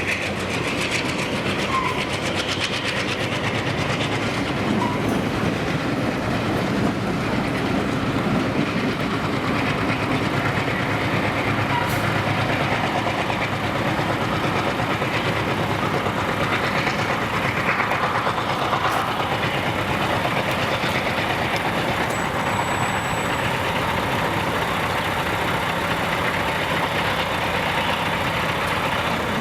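Freight train rolling past steadily, a continuous rumble of wheels on rail, with a brief thin high squeal a little past two thirds of the way through.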